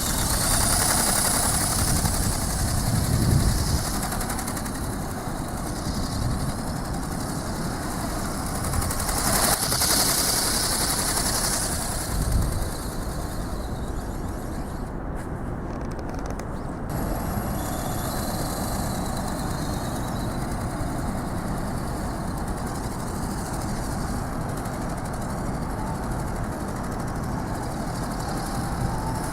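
Strong wind buffeting the microphone, with gusty low rumbles about 3 and 12 seconds in and a high hiss that swells near the start and again about 9 to 12 seconds in.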